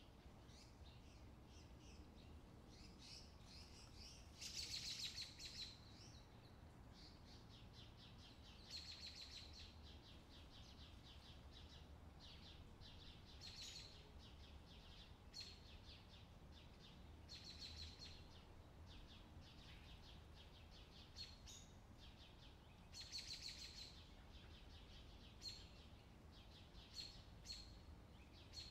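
Faint bird chirps and short rapid trills, repeating in little clusters every few seconds over a quiet low hum.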